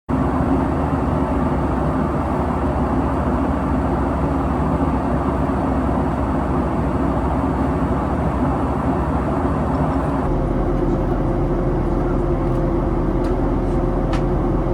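Steady cabin noise inside a Boeing 737 MAX 8 in flight: engine and airflow rumble. About ten seconds in, the rumble changes slightly and a faint steady hum joins it.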